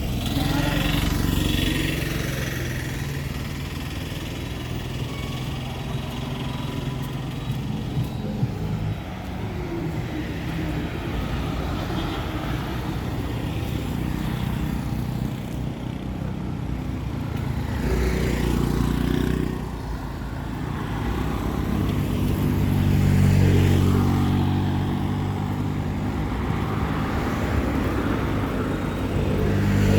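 Town street traffic: motor vehicle engines running as they pass. One grows louder and passes about three-quarters of the way through.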